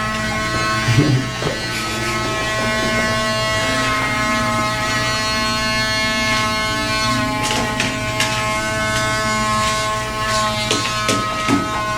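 Handheld electric grooming tool running steadily, its small motor giving a continuous whine.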